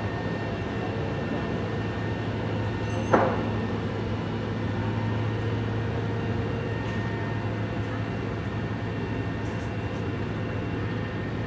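Steady low drone of an idling vehicle engine with a constant hum. A brief sharp sound stands out about three seconds in.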